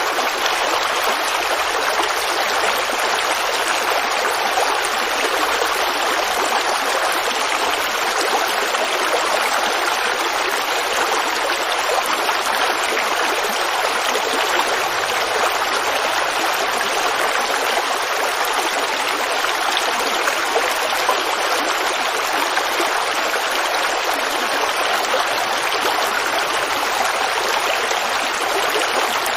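Forest creek water running and babbling in a steady, even rush.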